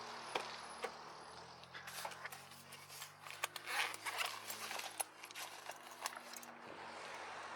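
Scattered clicks, scrapes and rustling of hands working on trailer tie-down hardware and straps. A low, steady engine hum runs under it through most of the middle.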